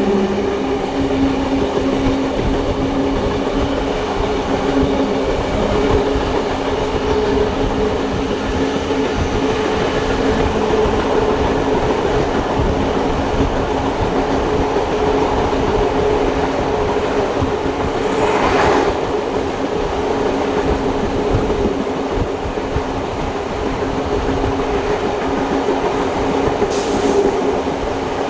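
Steam-hauled passenger train running along the track, heard from on board: a steady rumble of wheels on the rails under a constant drone, with a brief louder rush about two-thirds of the way through and another near the end.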